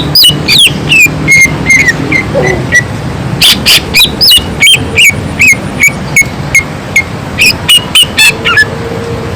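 Cucak ijo (greater green leafbird) singing loudly in a rapid stream of sharp, high chips mixed with short whistled notes that slide down in pitch, several notes a second.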